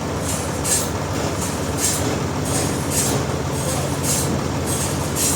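Sawmill machinery running steadily with a low engine hum, and a short hiss coming back about once a second.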